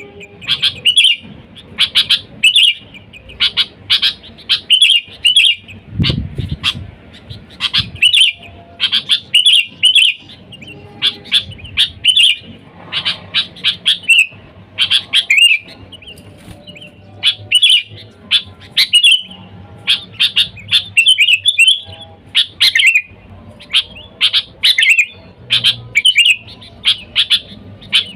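Sooty-headed bulbul calling energetically, a quick run of short bright chirping phrases one after another with hardly a pause. There is a low thump about six seconds in.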